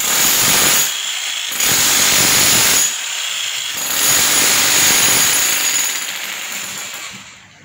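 Handheld electric power tool running hard on a renovation job, in loud stretches of one to two seconds with brief easings between, then winding down near the end.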